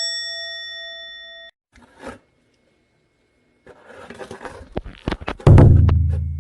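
A bright chime rings and is cut off abruptly about a second and a half in. After a quiet gap, a patch of crackling clicks leads into a loud low buzz that starts suddenly and fades.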